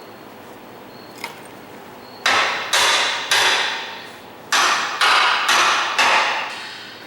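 Hammer blows on steel front-suspension parts, fitting A-arm and spindle hardware on a street stock car. There are seven sharp strikes, three then four, each ringing briefly, after one faint click.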